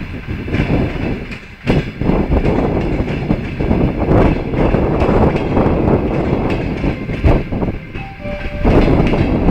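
Passenger train coaches rolling past at speed, their wheels rumbling and clattering over the rails.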